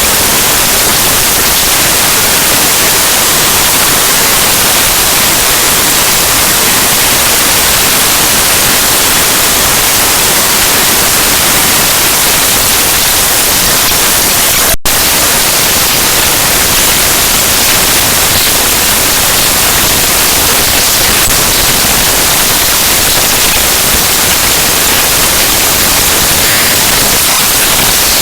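Loud, harsh digital static like white noise, strongest in the highs, with one split-second dropout about halfway through: the raw bytes of the Windows kernel file ntoskrnl.exe played back as audio.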